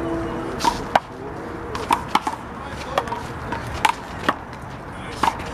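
One-wall handball rally: the big blue rubber handball smacking sharply as it is slapped by hand, hits the wall and bounces on the court. There are about nine irregular smacks, some in quick pairs.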